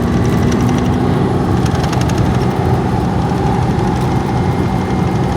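Steady engine drone and road noise of a semi truck cruising on the highway, heard from inside the cab.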